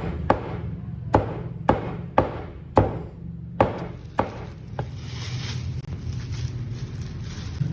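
Chopping: a blade striking a cutting board about eight times at uneven intervals over the first five seconds, over a steady low background hum.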